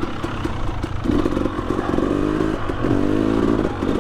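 KTM 300 XC TPI two-stroke single-cylinder dirt bike engine running under throttle on an uphill trail climb, its pitch rising twice in short bursts of throttle, about a second in and again near three seconds. Light clattering over the top.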